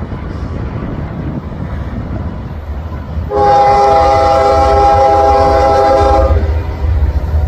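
Union Pacific diesel freight locomotive sounding its multi-chime air horn in one long chord of about three seconds, starting about three seconds in, over the low rumble of the approaching train.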